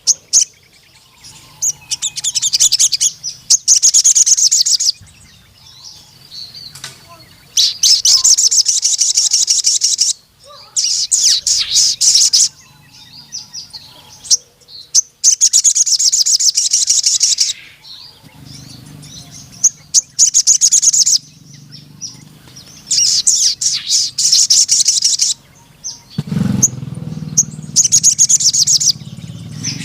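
Crimson sunbird (sogon) singing in repeated bursts of rapid, high trilling notes, each burst two to three seconds long with short pauses between. A low hum comes in near the end.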